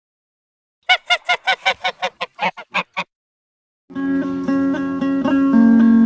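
A rapid string of about ten honking calls over two seconds, then a short gap of silence. After that, guitar music starts and carries on.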